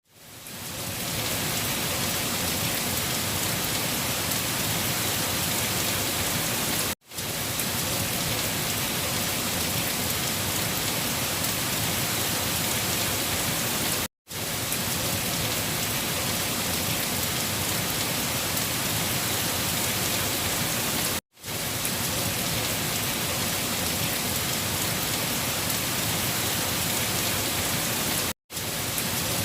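Rain falling steadily, an even hiss that fades in over the first second. It breaks off to silence for a moment about every seven seconds, where a short recording repeats.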